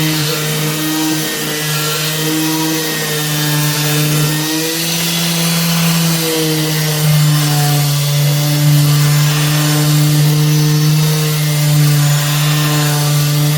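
Ryobi electric sander with 240-grit paper running against an aluminium wheel rim, sanding out curb rash: a steady motor hum whose pitch sags and recovers slightly as it is pressed on, over the hiss of the abrasive.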